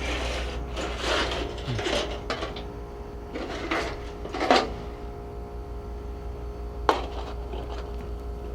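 Irregular knocks and metallic clatter as sheet metal is handled and tapped with a hammer. The sharpest strikes come about halfway through and again a couple of seconds later, over a steady hum.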